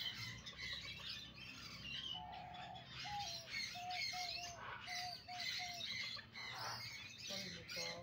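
Several birds chirping and twittering in quick, overlapping high calls. From about two seconds in, a lower call joins: a run of about eight short, even notes over some four seconds.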